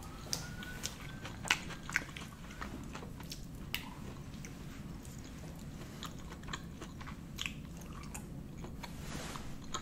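Close-miked eating sounds: a person chewing food, with sharp mouth clicks, the loudest in the first two seconds.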